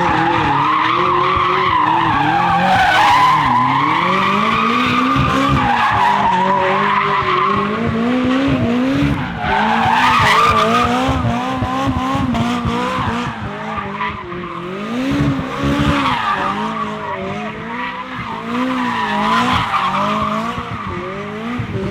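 Supercar engine held at high revs while the car spins donuts, its pitch swinging up and down about once a second, with tyres squealing.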